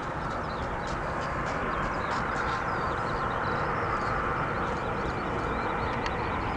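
Steady roar of a jet airliner's engines, with a faint whine in it, while small birds chirp over it.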